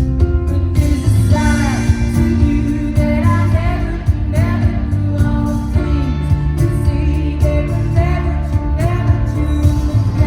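A woman singing a pop ballad live with her band: sung phrases over sustained chords, a strong bass and a steady beat.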